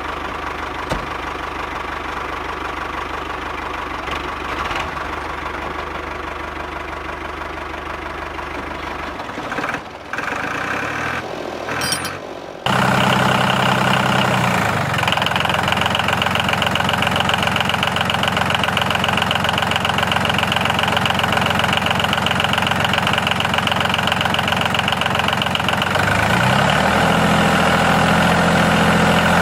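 A small engine or motor running steadily. About 13 seconds in, the sound changes abruptly to a louder, steady run, and its pitch shifts briefly twice.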